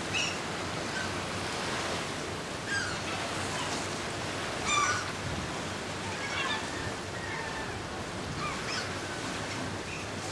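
Seagulls giving short, scattered calls over a steady rush of wind and sea.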